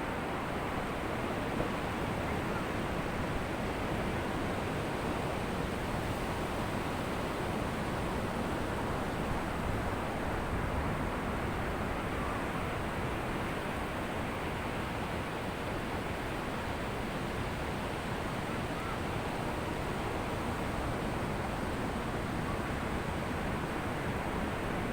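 Ocean surf breaking on a beach: a steady, unbroken wash of waves with no single crash standing out.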